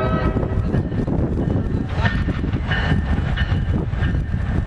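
New Jersey Transit PL42AC diesel locomotive and its train running on the rails with a loud, steady rumble. A few short high-pitched tones come in about two to three seconds in.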